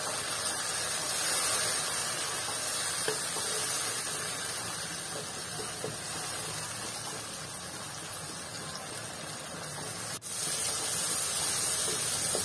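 Tomatoes, onions and green chillies sizzling in hot oil in a kadai as they are stirred with a spatula: a steady frying hiss. The sound drops out for an instant about ten seconds in.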